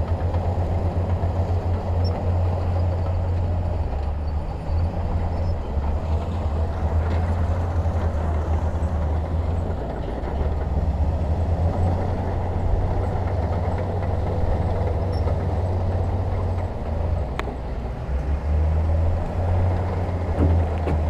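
Heavy diesel engine of earthmoving machinery running steadily with a deep rumble, with one brief sharp click late on.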